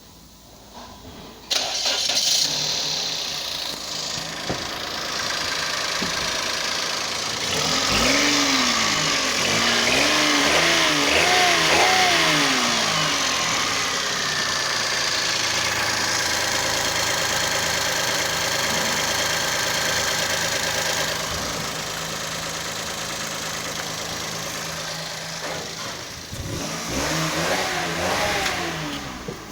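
Toyota Passo's 1KR-FE 1.0-litre three-cylinder petrol engine starting about a second and a half in and settling to idle, then revved up and down several times in quick succession. It holds a steady raised speed for a while, drops back, and is revved a few more times near the end, in an idle and mid-revs check of a used engine.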